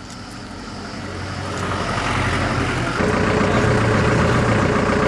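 Motor vehicle engine running, growing steadily louder over the first two seconds, then jumping suddenly louder about three seconds in and holding steady.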